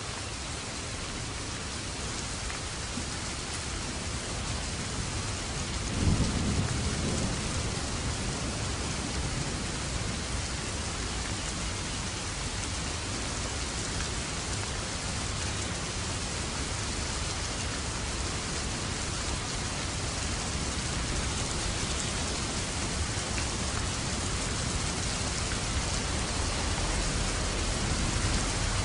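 Steady rain falling throughout, with a sudden roll of thunder about six seconds in that rumbles low for a few seconds before fading back under the rain.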